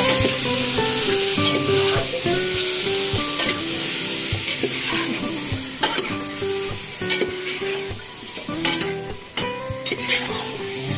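Chicken pieces sizzling as they are sautéed in oil in a large aluminium pot. A metal spatula stirs them, scraping and clicking against the pot, with the clicks more frequent in the second half. Background music plays underneath.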